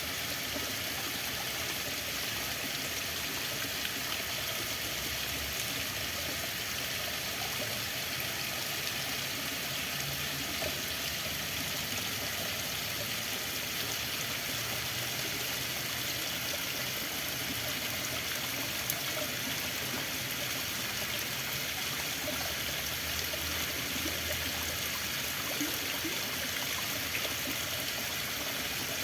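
Running water flowing steadily, like a stream, with an even rushing sound.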